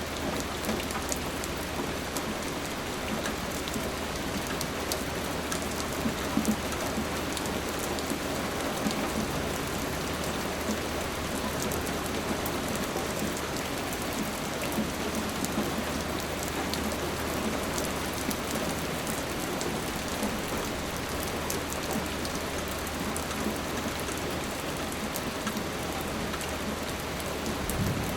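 Steady rain falling, with many sharp individual drops pattering on a surface through the even hiss.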